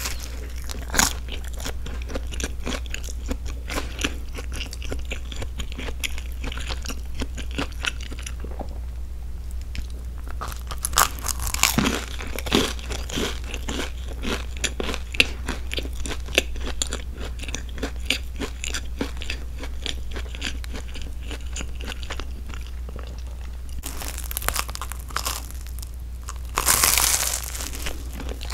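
Close-miked chewing of a grilled broccoli and cheese sandwich: a dense run of small crunches from the toasted crust, with a fresh crunchy bite near the end. Breaths through the nose come in between.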